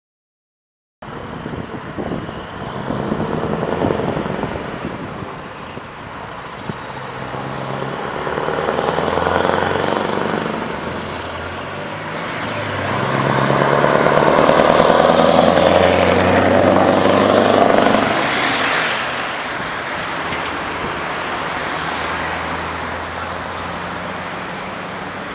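Scania R500 V8 truck engine pulling away, its pitch rising as it accelerates. It grows loudest partway through, then settles into a steadier run.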